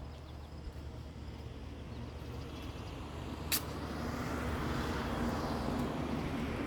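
A motor vehicle running, with a steady low rumble that grows louder from about four seconds in, as if drawing closer. A single sharp click falls about three and a half seconds in.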